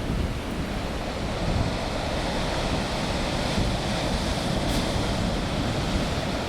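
Heavy winter storm surf breaking and rolling in, a steady rumbling wash of waves, with wind buffeting the microphone.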